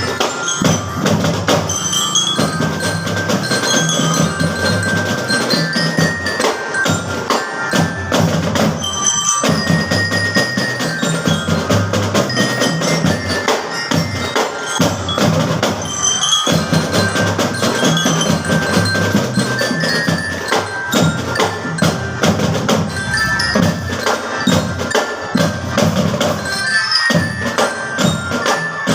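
School drum band playing: marching drums keep a steady beat while bell-lyra (marching glockenspiel) notes carry the melody above them.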